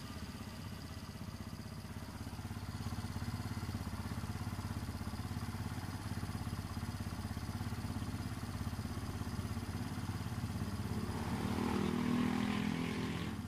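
Kawasaki Barako motorcycle's single-cylinder engine idling steadily, briefly a little louder near the end.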